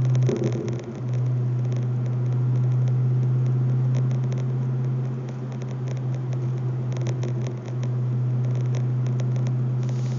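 Pontiac G8 GXP's LS3 V8 through an SLP Loudmouth axle-back exhaust, heard from inside the cabin: a steady, deep drone with a short break about a second in.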